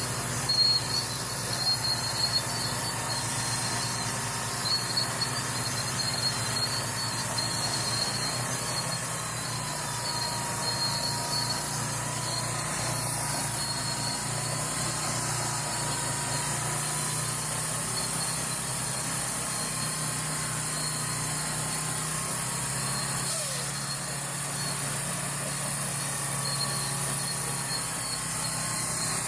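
Heavy truck engine running steadily, with a thin, wavering whine over it through the middle.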